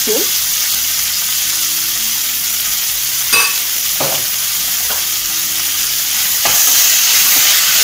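Chopped onion and capsicum frying in oil in a non-stick wok: a steady sizzle. There is one sharp click a little past three seconds in, and the sizzle grows louder from about six and a half seconds as a spatula starts stirring the vegetables.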